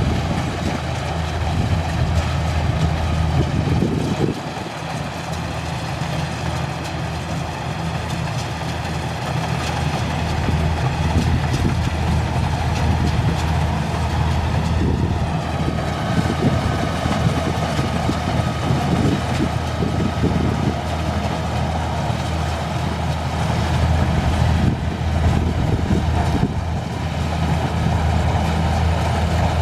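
Kubota combine harvester's diesel engine running steadily under load, with a brief dip in level about four seconds in.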